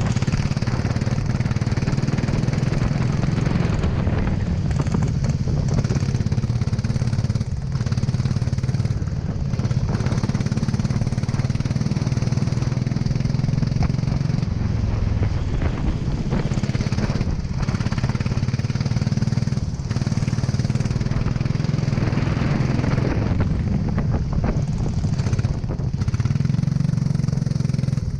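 Kart engine running hard on track, its note rising and falling as the kart accelerates and lifts off, with brief drops every few seconds.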